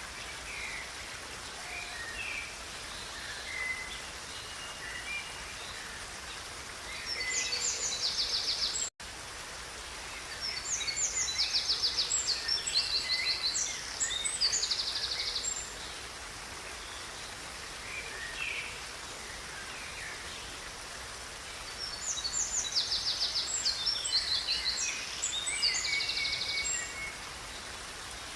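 Steady rush of a river with songbirds singing over it: three longer bouts of fast, high trilled song, with shorter chirps scattered between. The sound drops out for an instant about nine seconds in.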